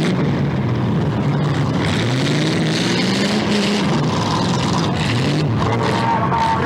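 Demolition derby car engines running and revving, one engine's pitch climbing and then dropping back between about two and four seconds in.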